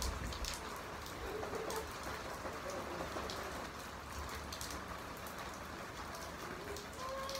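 Steady rain falling, with drops splashing onto a wet concrete floor as many separate small ticks.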